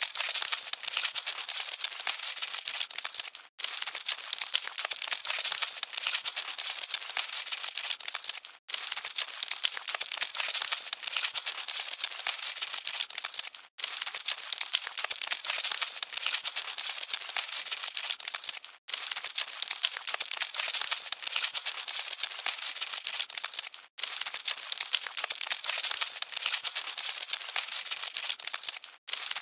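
Cockroaches scuttling: a dense, steady high-pitched crackle of tiny scratching clicks. It loops about every five seconds, with a brief dropout at each join.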